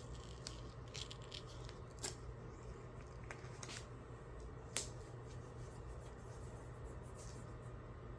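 Masking tape being worked by hand: scattered short crackles and snips, with two sharper clicks about two seconds and nearly five seconds in.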